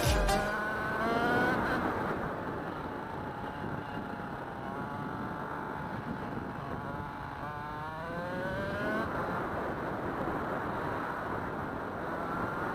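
Kawasaki KDX 125's two-stroke single-cylinder engine running, its pitch rising twice: about a second in, and again in a longer climb from about six to nine seconds in.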